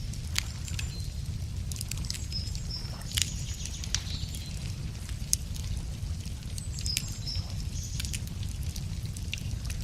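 Wood fire crackling with scattered sharp pops over a steady low rumble, while small birds chirp a few short phrases.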